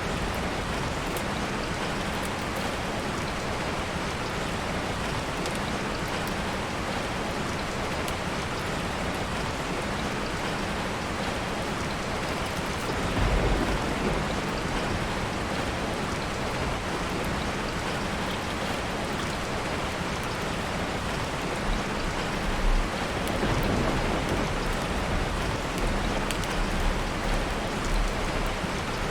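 Steady heavy rain falling, pattering on a tarp shelter. Low rumbles swell briefly about halfway through and again near the end.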